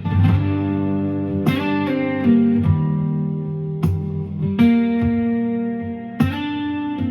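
Instrumental guitar music: chords struck and left to ring, a new chord every second or two.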